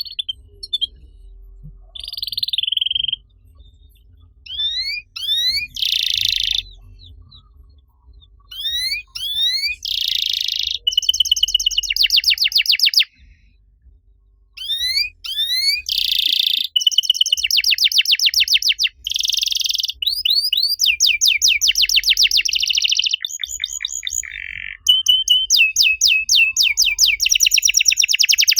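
Domestic canary singing: phrases of rapid trills, rising whistled sweeps and buzzy rolls separated by short pauses, running into a longer, unbroken trill over the last few seconds.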